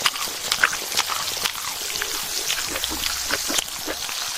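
Pork belly sizzling and spattering on a hot grill: a steady hiss dotted with quick crackling pops of fat.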